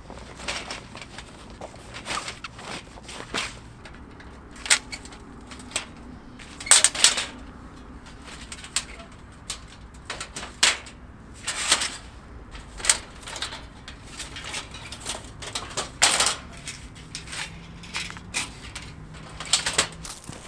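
Irregular sharp clicks and crackles, roughly one a second, some louder than others.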